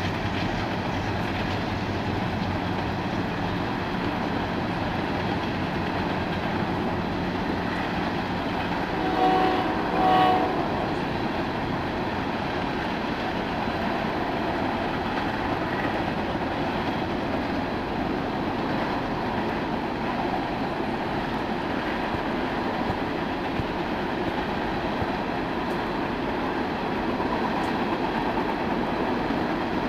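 BNSF tank train's cars rolling past on the rails, a steady even rumble. A horn blows briefly twice about nine seconds in.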